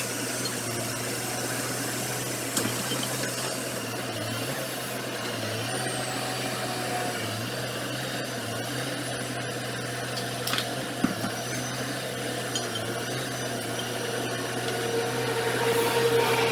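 Diesel engine of heavy earthmoving machinery running steadily, with a whine that grows louder near the end.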